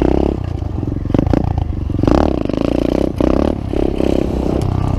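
Pit bike's small single-cylinder engine revving up and down, with clattering and scraping mixed in.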